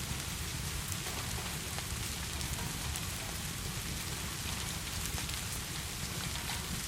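Steady heavy rain: an even hiss with a low rumble underneath and many scattered small ticks of drops.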